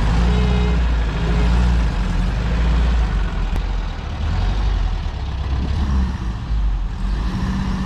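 VW Kombi van engine running as the van reverses, with steady beeps from a reversing beeper in the first second and a half, then only the low engine rumble.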